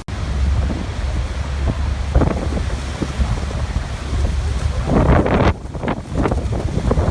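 Waterfall rushing, with wind buffeting the microphone in a heavy low rumble and gusts that swell and ease. The sound drops out for an instant at the very start.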